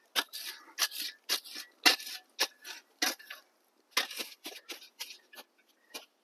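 A shovel scraping and scooping hot coals and dirt to bury a roast, in a series of irregular short scrapes and crunches.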